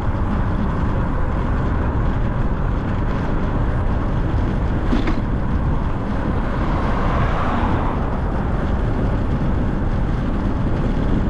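Wind rumbling on the microphone of a moving bicycle, with road traffic noise and a brief swell about seven seconds in.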